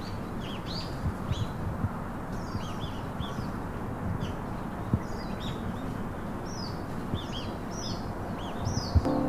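Birds chirping: a run of short, high, sliding chirps, several a second, over a steady low background hiss.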